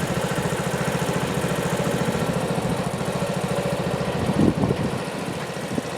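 Sears Suburban garden tractor engine running steadily with a fast, even firing beat.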